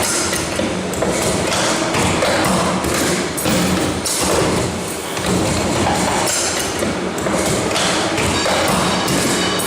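Bucket-handle making machine running, with repeated thumps and knocks from its working strokes over a steady motor hum.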